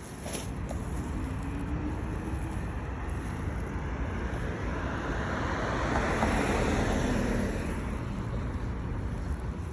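A car passing by on the road: steady tyre and engine noise that builds to a peak about six or seven seconds in, then fades away.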